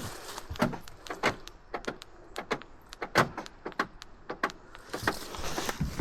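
A van's door lock clicking and clunking over and over, in quick irregular strokes, as it is worked repeatedly; the owner says the lock is going.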